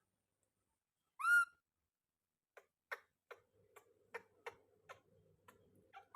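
A baby monkey gives one short, high-pitched call that rises and then falls, about a second in. Later comes a series of sharp clicks or taps, about three a second, over a faint steady hum.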